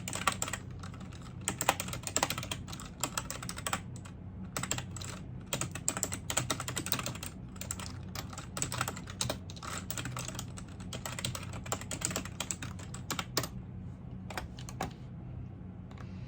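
Typing on a computer keyboard: a steady stream of keystrokes over a low steady hum. The typing thins to a few isolated clicks about thirteen seconds in and then stops near the end.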